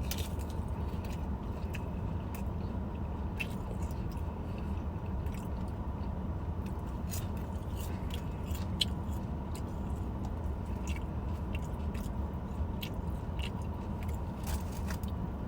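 A person chewing and biting into fried fish dipped in tartar sauce: wet, crunchy mouth clicks scattered irregularly over a steady low hum.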